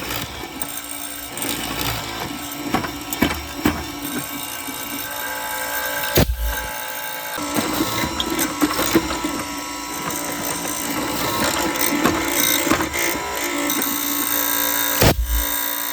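A power tool running steadily on the workpiece with a whirring hum, mixed with scattered knocks and clicks. It breaks off sharply twice, about six seconds in and again near the end.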